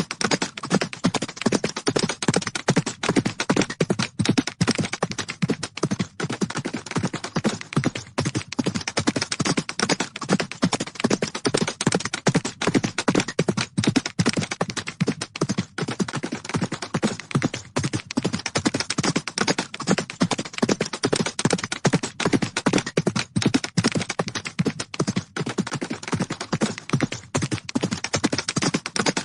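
Horses' hooves galloping: a dense, continuous run of rapid hoofbeats.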